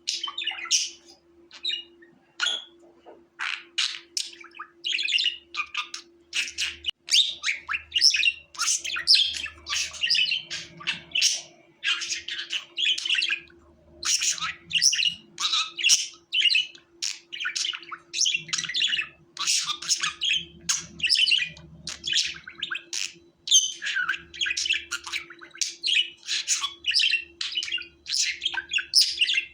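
Budgerigar chirping and warbling in a fast, unbroken chatter of short, high calls and squawks, with a faint steady hum underneath.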